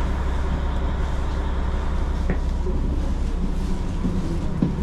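KiHa 40 diesel railcar standing with its diesel engine idling: a steady low rumble, with a single click a couple of seconds in.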